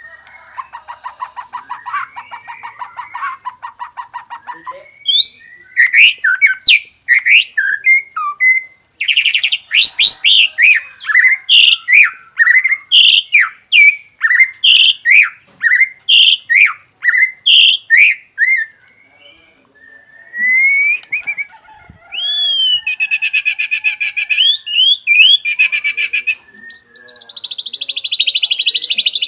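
White-rumped shama (murai batu) singing a long, varied song. A fast rattle opens it, then comes a long run of loud whistled notes that sweep up and down. After a short pause about two-thirds through, quick trills end in a high buzzy trill.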